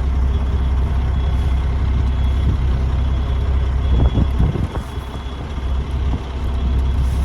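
Semi truck's diesel engine droning steadily from inside the cab while driving, its low rumble dipping briefly about four and a half seconds in. A faint high tone beeps on and off.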